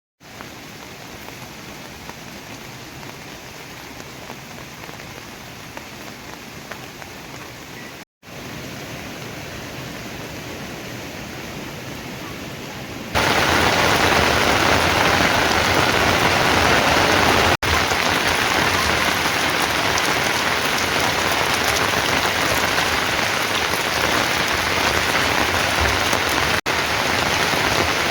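Heavy rain falling steadily as an even hiss. It becomes much louder about halfway through, and it drops out briefly a few times.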